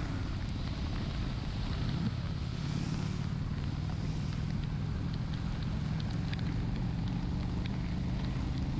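Honda Shadow 750's V-twin engine running steadily at cruising speed, under heavy wind rush on the microphone. From about halfway through, raindrops tick against the camera.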